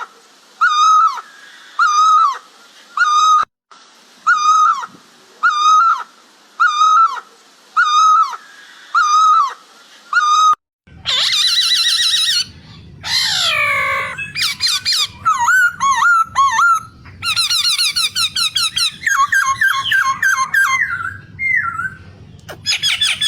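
White-browed scimitar babbler calls: a short curling note repeated about once a second for roughly ten seconds, then, after a break, a varied run of squeaky chattering calls over a faint low hum.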